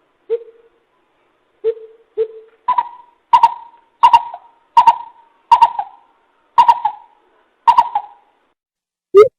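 Coucal hooting: three low, spaced hoots, then about seven higher, clipped hoots at a little over one a second.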